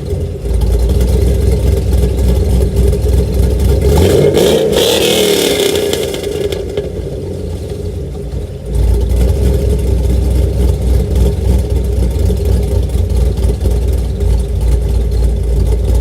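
Cammed 6.2 L V8 of a 2010 Camaro SS, breathing through long-tube headers and Flowmaster mufflers, idling with a heavy low rumble. About four seconds in it is revved once, rising and falling back, and the low rumble eases for a couple of seconds before returning strongly for the rest.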